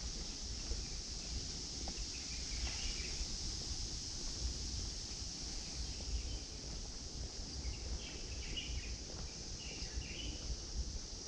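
A steady, high insect drone, with birds chirping now and then over a low, uneven rumble.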